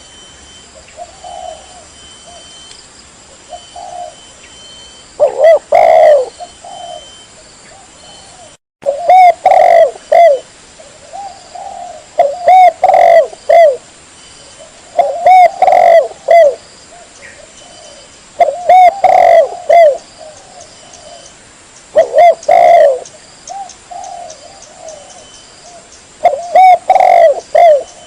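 Spotted dove (tekukur) cooing, a lure recording: loud phrases of several coos repeated about every three seconds, with softer coos between them. A brief dropout cuts the sound out about nine seconds in.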